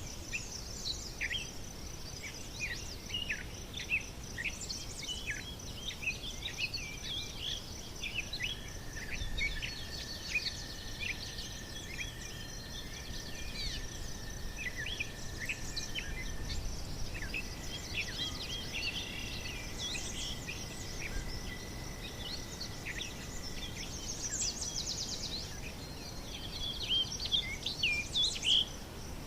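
Many birds chirping and singing in quick, overlapping calls, over a steady high insect trill. A long, even tone runs underneath through the middle.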